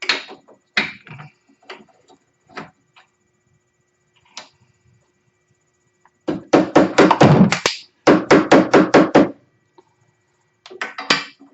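Hammer striking metal: a few single blows, then two quick runs of about five blows a second, then a few more blows near the end.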